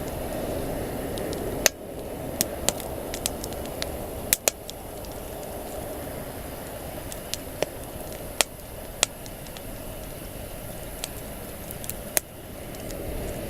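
Wood campfire burning: sharp pops and snaps at irregular intervals, about a dozen, over a steady rushing noise.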